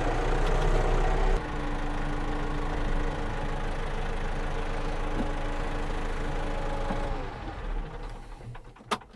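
Vehicle engine running steadily, dropping to a lower note about a second and a half in, then winding down and stopping near the end, followed by a single sharp click.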